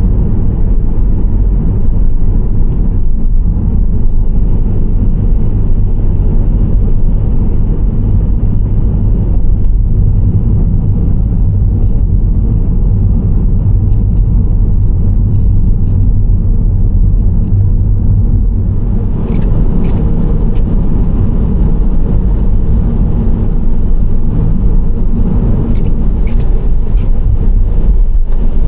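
Nissan Serena C25 minivan driving: a steady low rumble of engine and road noise with tyre hiss. About two-thirds of the way through the hiss gets brighter and a few short clicks come in.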